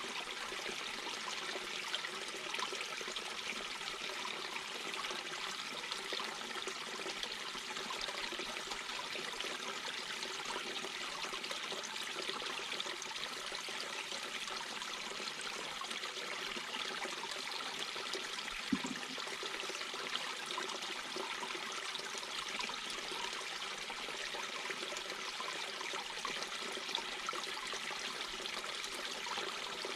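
A mountain brook babbling, a steady, even rush and trickle of water over stones. About two-thirds of the way through there is one brief low thump.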